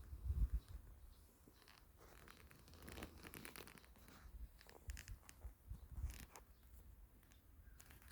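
Faint, irregular rustling and scratchy crackles over a low rumble of wind.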